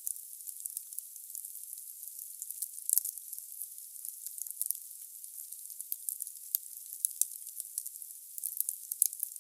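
Firewood burning in a fireplace: a steady high hiss with many small, irregular crackles and pops, and a louder crack about three seconds in.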